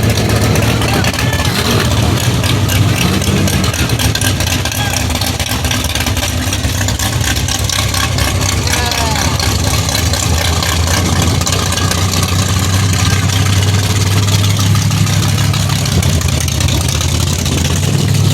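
Pickup truck engines running at a steady idle, with indistinct voices in the background.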